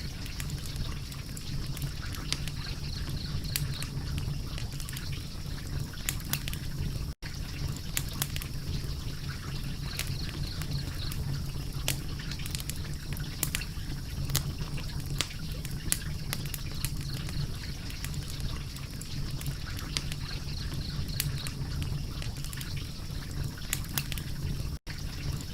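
Wood fire crackling, with frequent irregular sharp pops and snaps over a low steady rumble. The sound cuts out for an instant twice.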